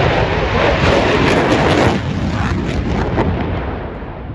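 Single Pratt & Whitney F135 turbofan of an RAAF F-35A Lightning II at high power on a display pass: loud, crackling jet noise that fades over the last couple of seconds.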